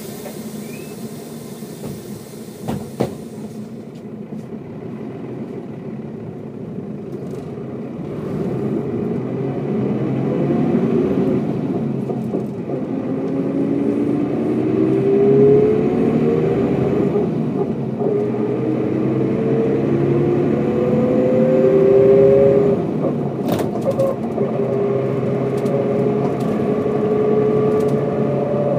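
Mercedes-Benz O407 bus's six-cylinder diesel engine pulling away and accelerating, its pitch rising through the gears with a gear change about halfway through and another near the end, then running on steadily. A click comes a few seconds in, while the engine is still quiet.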